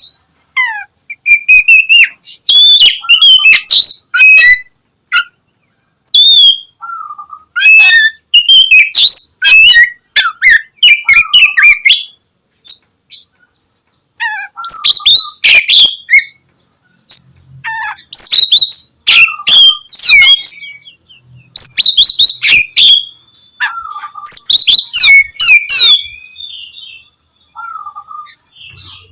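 Oriental magpie-robin singing loudly: rapid phrases of gliding whistles and chirps, broken by short pauses.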